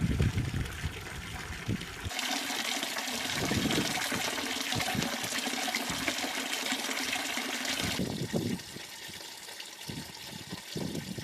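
Running water: a steady rushing hiss that starts abruptly about two seconds in and cuts off about eight seconds in, with low splashing thuds before and after it.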